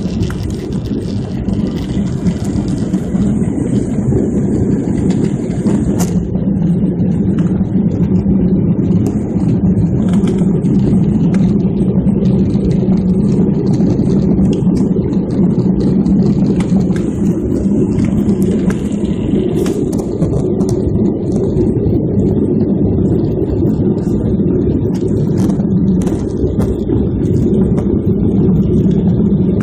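Steady low rumble of a moving vehicle heard from inside, with scattered light rattles and ticks over it.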